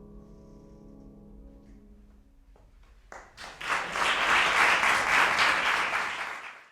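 The final held trumpet-and-piano chord dies away over the first two seconds. About three seconds in, audience applause breaks out, swells quickly, and cuts off abruptly near the end.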